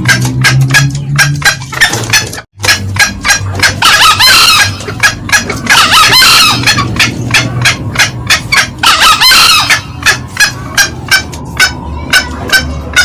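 Green junglefowl calling: a fast run of short cackling notes, with three longer, louder calls about four, six and nine seconds in. There is a brief break a couple of seconds in.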